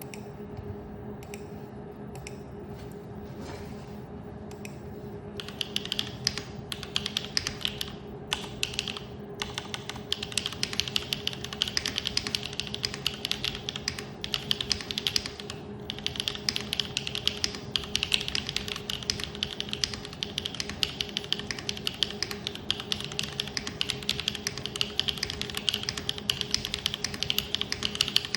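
Typing on a Neo75 75% mechanical keyboard for a sound test: a few scattered keystrokes at first, then fast, continuous typing from about five seconds in, with brief pauses. A steady low hum sits underneath.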